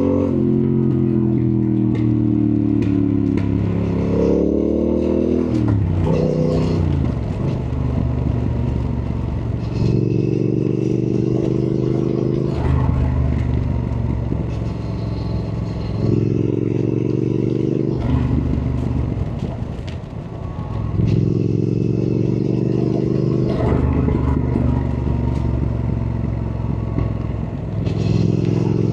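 Triumph Thruxton R's 1200 cc parallel-twin engine on a ride. Its revs fall over the first few seconds, then rise and drop quickly around five to seven seconds in. After that it pulls in several bursts of about two seconds each, with the throttle eased off between them.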